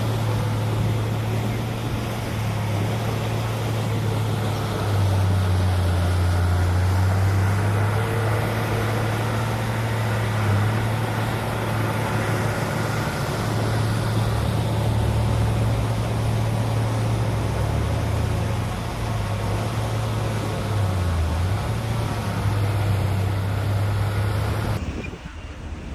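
Heavy diesel engine of earthmoving machinery running steadily, its pitch and load shifting as it works. It cuts off abruptly near the end.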